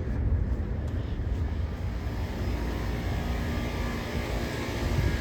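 Steady rumble of a Boeing 737's jet engines just after touchdown, with a faint steady whine above it.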